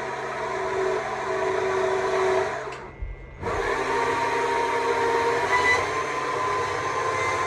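Stihl MSA 200 C battery chainsaw running and carving wood, with a steady motor whine. About three seconds in the trigger is let off and the saw drops away for a moment, then runs up again.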